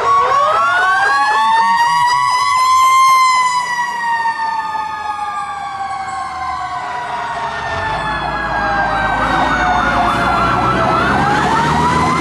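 Fire truck's Federal Q mechanical siren being peaked: it winds up over about three seconds, coasts slowly down, and winds up again near the end. An electronic siren yelps rapidly alongside it, and a truck engine rumbles underneath in the second half.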